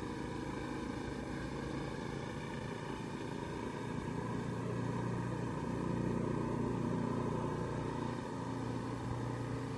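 Engine of a snow-clearing machine running steadily, growing a little louder about four seconds in.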